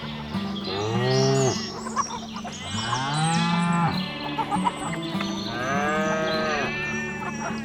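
Cattle mooing: three long calls, each rising and then falling in pitch, over quiet background music.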